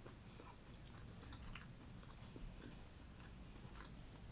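Faint chewing: soft, scattered wet mouth clicks of a person chewing food.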